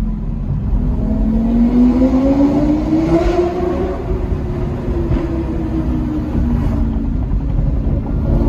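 Lamborghini engine heard from inside the cabin, accelerating with its pitch rising for about three seconds, then easing off and holding before climbing again near the end.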